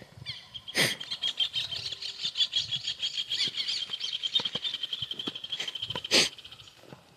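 A bird's long, rapid high trill runs for about five seconds from about a second in. Two sharp knocks come, one about a second in and a louder one just after six seconds.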